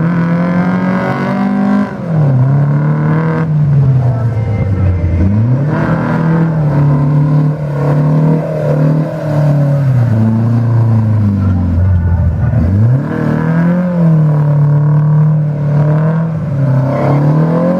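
Car engine revving hard on a drift pad, its pitch climbing and falling again and again as the throttle is worked, with deep dips about five and twelve seconds in.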